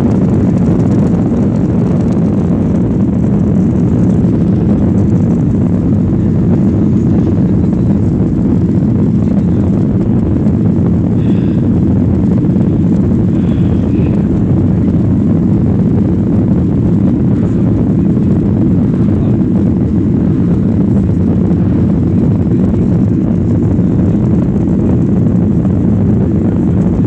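Steady, loud jet engine and airflow noise heard inside an airliner cabin during takeoff and climb.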